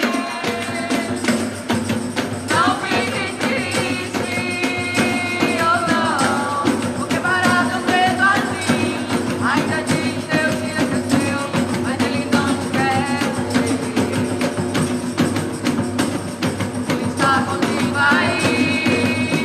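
Live gospel band playing a worship song: drums and percussion keep a steady beat under a melodic lead line.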